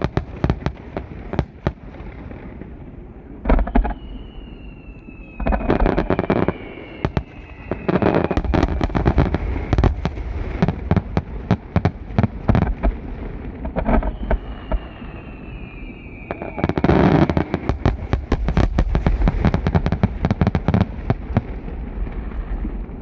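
Fireworks finale: a rapid barrage of shell bursts and crackle, packed into dense clusters, with two long whistles that slide down in pitch.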